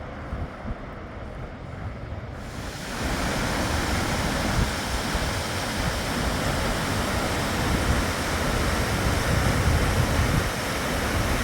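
Fast-flowing river water rushing, a steady hiss that gets much louder and fuller about two and a half seconds in.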